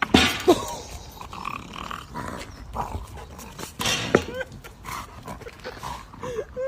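A dog making short calls that rise and fall in pitch, with sudden loud knocks right at the start and about four seconds in.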